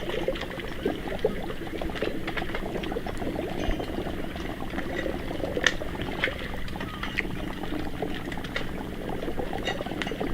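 Water bubbling, with a dense crackle of many small irregular pops and ticks.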